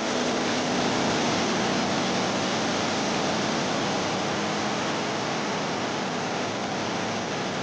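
Steady, loud rushing noise with no distinct pitch. It cuts in and cuts out abruptly.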